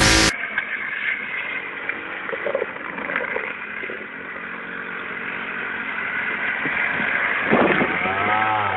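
Motorcycle engines running steadily in a crowd of bikes, with a swell in pitch about seven and a half seconds in.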